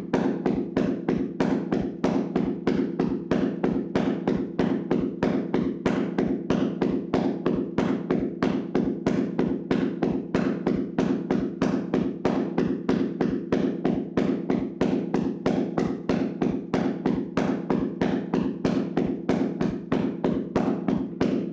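Hands slapping and tapping rhythmically on a person's body in a vigorous percussive massage: an unbroken run of dull, fleshy slaps at about three to four a second.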